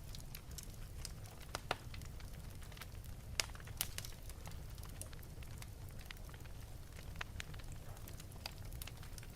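Fire in an open fireplace crackling, with irregular sharp pops over a low steady rumble. The loudest pop comes about three and a half seconds in.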